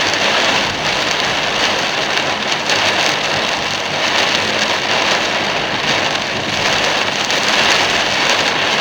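Heavy rain beating steadily on a moving car in a sudden downpour.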